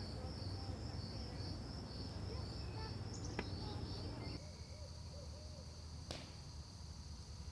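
Crickets chirping in a steady, high-pitched pulsing chorus, with a couple of faint clicks.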